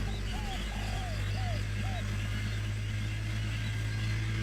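A bird gives short, repeated chirps, about five in the first two seconds and then a pause, over a steady low hum.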